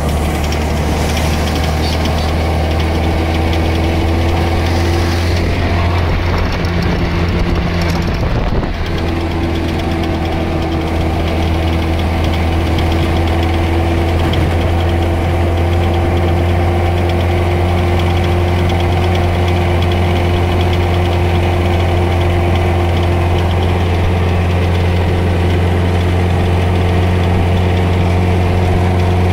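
Vintage MG open sports car's engine running steadily while driving, heard from the cockpit, with a brief wavering in the drone about eight seconds in.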